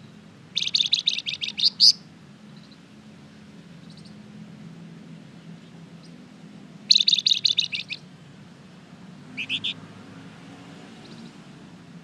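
A flamboyan songbird singing: a fast, high trill of about ten sharp notes ending on a higher note, a second similar trill a few seconds later, then a short three-note phrase near the end. A faint low hum runs underneath.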